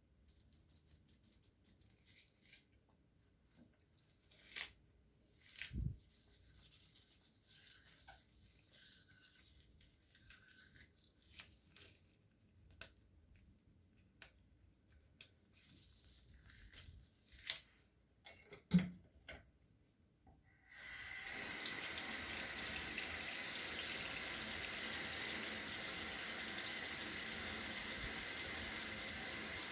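Scattered small clicks and knocks of things being handled. About two-thirds of the way through, a tap is turned on and water runs steadily into a sink.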